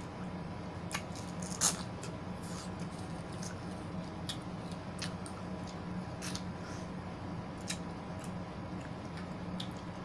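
Close-up chewing and slurping of juicy pineapple and melon: scattered short wet clicks and crunches, the loudest about a second and a half in, over a steady low hum.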